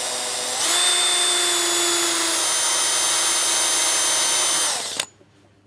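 Small electric drill starting up, rising to a higher speed about half a second in, running steadily with a high whine for about four seconds, then winding down and stopping.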